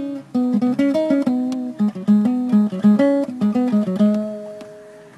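Guitar playing a blues intro: a run of quickly plucked notes and chords, ending on one held note that fades away about five seconds in.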